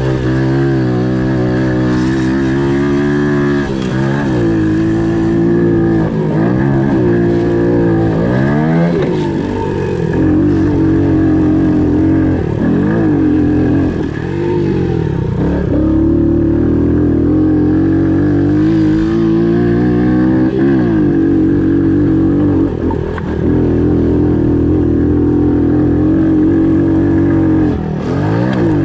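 Pit bike engine running at speed, its pitch repeatedly dropping and climbing again as the throttle is rolled off and back on.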